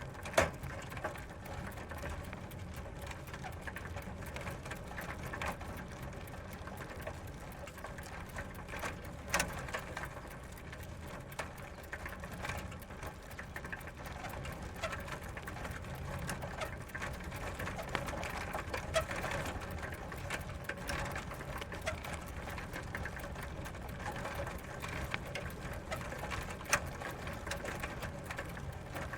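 Bicycle ridden slowly on gravel: a steady crunch of tyres on loose stones mixed with a fast, rattling clicking from the bike, with a few sharper clicks now and then.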